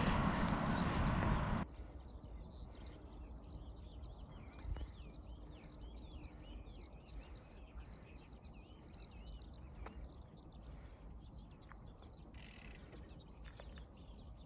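A short rush of noise that cuts off suddenly in the first two seconds, then many small birds chirping and calling together, quick overlapping high chirps.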